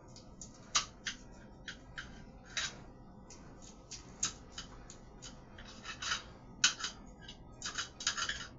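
Knife cutting through baked bread in a pan: a run of short, irregular scraping and sawing strokes, with the loudest ones bunched near the end.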